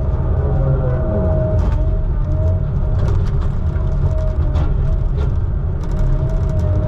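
Heavy engine running steadily at a logging deck, with a wavering whine over the low rumble and scattered clicks and knocks.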